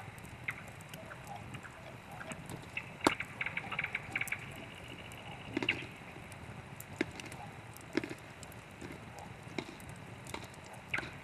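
Wood campfire crackling, with irregular sharp pops and snaps over a low, steady background; the loudest snap comes about three seconds in, followed by a quick run of crackles.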